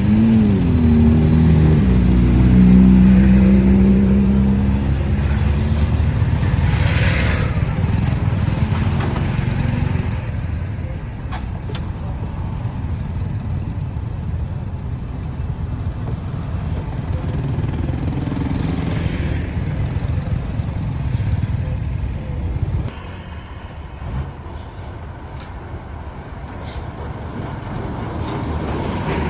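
Road traffic passing: a vehicle engine runs loud in the first few seconds, its pitch rising, dipping and then holding, before it fades to a lower, steady traffic rumble that drops again about three-quarters of the way through.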